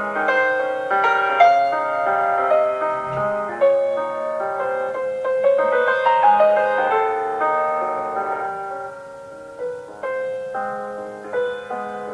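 Classical piano music: a steady run of struck notes and chords, growing softer for a moment about nine seconds in before picking up again.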